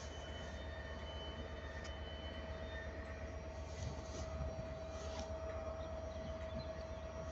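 A train arriving at a station platform: a low rumble with one steady whining tone held throughout.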